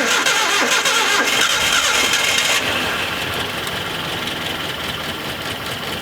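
A 1986 Nissan 720's Z24 four-cylinder engine catches and starts for the first time after sitting over ten years. It runs fast at first, then settles to a steadier, slightly quieter idle about two and a half seconds in.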